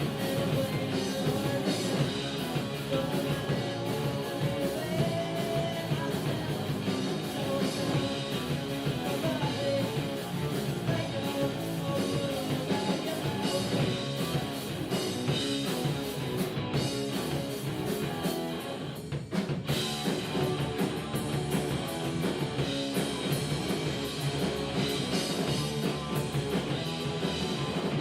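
Rock music with guitar and drums, playing continuously with a momentary break about nineteen seconds in.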